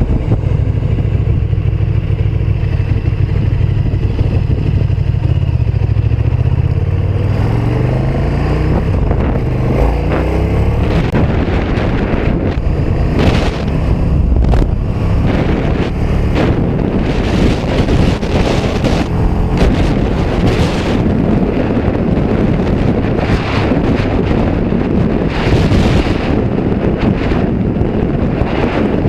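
KTM 1290 Super Duke R Evo's V-twin engine under way, with steady engine tones that rise in pitch from about seven seconds in as the bike accelerates. From then on, wind rushing over the microphone takes over, with the engine underneath.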